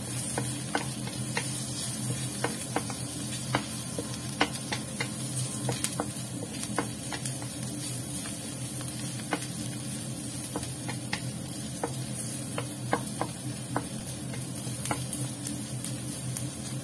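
Sliced red onion and minced garlic sizzling in oil in a stainless steel wok, stirred with a wooden spatula that scrapes and taps against the pan at irregular moments. A steady low hum runs underneath.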